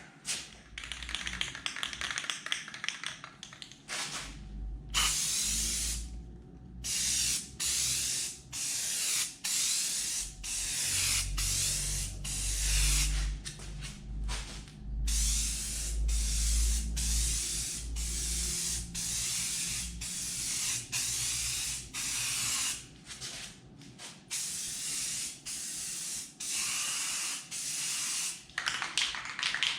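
An aerosol can of black truck bed coating sprays in many short hissing bursts with brief gaps between them. A low rumble runs underneath through the middle.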